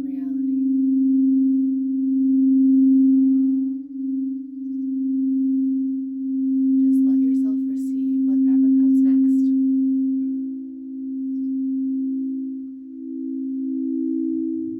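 Singing bowl sounding a steady low tone that swells and fades in slow waves, about every two seconds; a second, slightly higher tone joins about ten seconds in.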